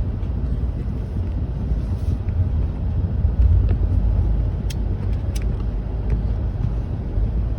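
Steady low rumble of a truck driving slowly over a snow-covered road, heard from inside the cab, with a couple of faint ticks about five seconds in.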